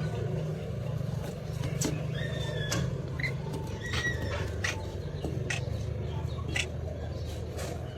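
Parrot giving a series of short, sharp chirps and clicks, roughly one a second, over a steady low hum.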